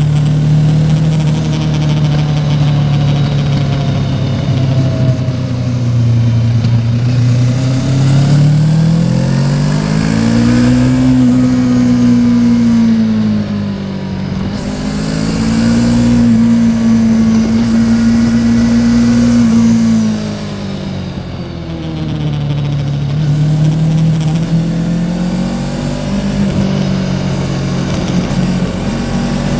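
Yamaha Tracer 700's parallel-twin engine running under way, its revs rising about a third of the way in, holding, falling off near two-thirds, then climbing again near the end.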